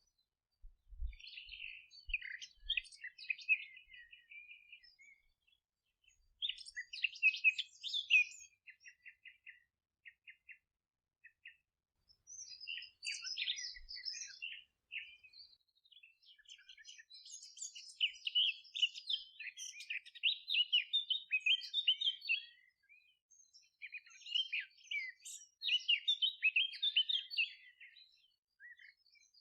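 Several songbirds singing, phrases of chirps and quick trills overlapping and pausing, busiest in the second half. A few faint low thumps come early on.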